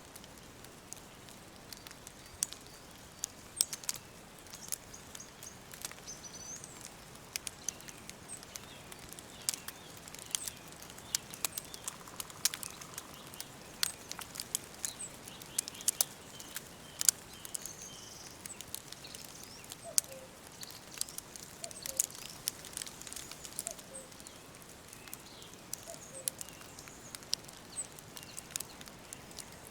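Wood fire crackling, with frequent short sharp pops over a soft steady hiss, and faint high bird chirps now and then.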